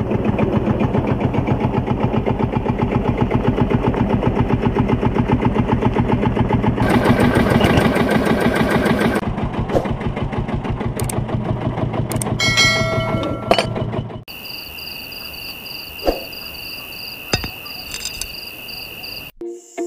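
A small diesel-style engine running with a fast, even chug, brighter for a couple of seconds about seven seconds in, with a few ringing metallic clinks before it stops about fourteen seconds in. Then insects chirp steadily in a high, pulsing trill.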